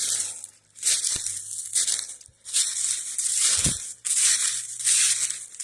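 A man breathing hard, three long heavy breaths close to the microphone, winded from climbing a steep wooded hill.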